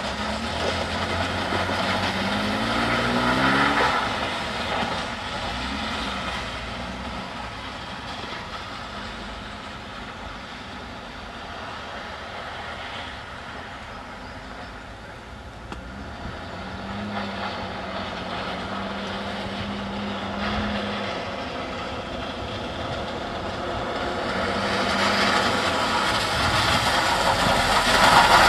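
Mercedes-Benz 280SE's straight-six engine revving up and easing off as the car slides around on a wet, icy surface. The revs climb in the first few seconds, the sound drops back for a long stretch in the middle, then the engine rises again near the end.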